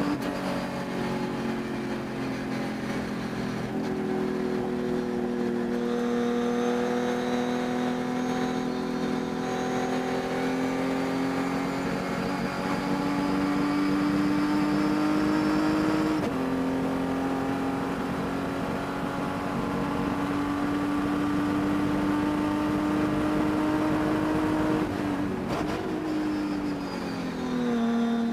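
Race car engine running hard at high revs, its pitch slowly climbing, with one sharp dip around the middle and a falling pitch near the end. The engine carries a high-RPM miss that the driver says can be heard through the race.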